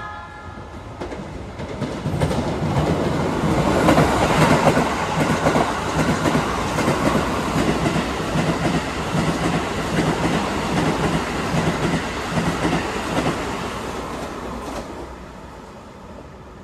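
A red Keikyu electric train running past the platform, its wheels clacking in a steady rhythm over the rail joints with a low steady hum beneath. It builds over the first few seconds, is loudest as the cars go by, and fades away near the end.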